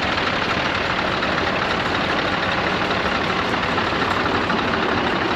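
Heavy diesel truck engine idling steadily, with a fast even pulsing.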